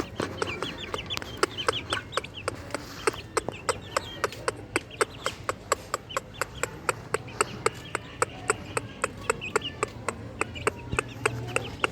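Parrot-beak long-tail chickens clucking and chirping, with many sharp clicks several times a second.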